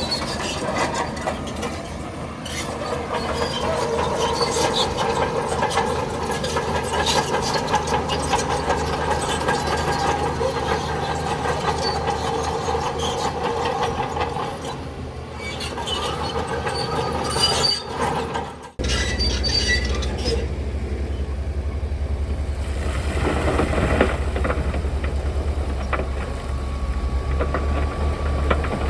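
Crawler bulldozer working: its steel tracks squeal and clank over the running diesel engine. About 19 seconds in, the sound cuts off abruptly to a deep, steady diesel engine running.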